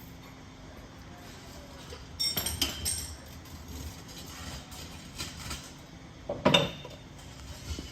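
A few clinks and knocks: a cluster about two seconds in and a single sharper knock near the end, the loudest, over a steady low hum.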